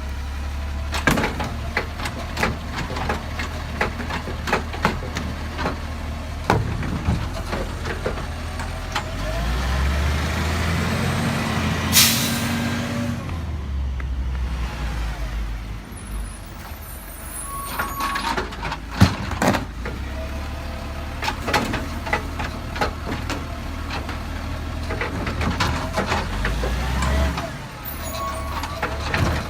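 Garbage truck's diesel engine running, revving up about ten seconds in. Near the middle comes a short, loud air-brake hiss, and scattered clanking knocks run throughout.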